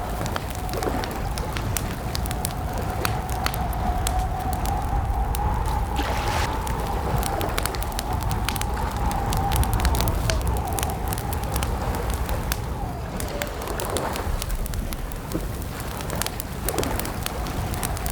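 Campfire crackling with frequent sharp pops over a low, steady rumble, with a faint, slightly wavering tone held underneath.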